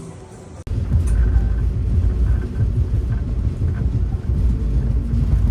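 Steady low rumble of a moving vehicle with faint scattered rattles, cutting in suddenly just over half a second in as the music stops.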